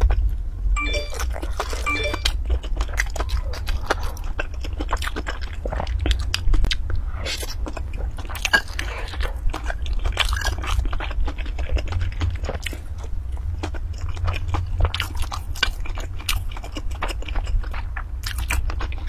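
Close-miked chewing and mouth sounds of a person eating, with a metal spoon clinking against a ceramic bowl a couple of times about a second or two in and scraping it during the rest of the eating.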